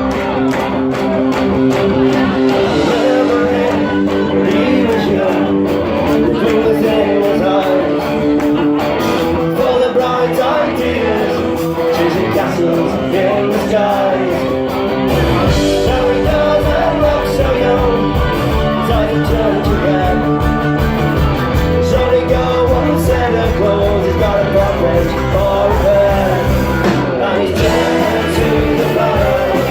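Rock band playing the intro of a song, led by guitar with long held notes; a steady bass and drum beat comes in about halfway through.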